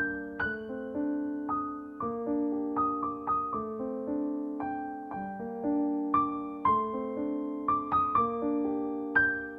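Soft background piano music: gentle notes struck and left to fade, about two a second.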